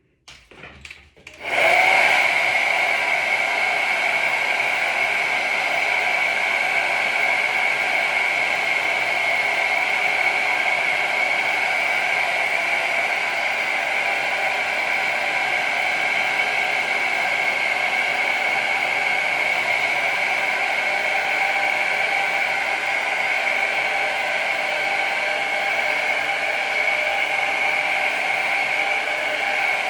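Hair dryer switched on about a second and a half in, then running steadily with a high whine over its airflow, blowing on the Go2B spray that holds the wig's lace down.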